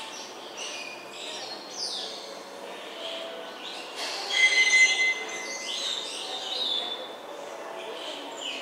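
Many birds chirping and calling at once: overlapping short high chirps and gliding whistles, loudest about halfway through with a brief cluster of shrill squeals and a held whistle.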